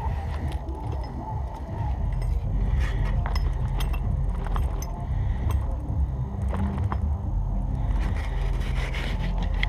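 Coffee-making kit clinking and rattling in short, scattered knocks as it is handled and packed away, over a steady low rumble.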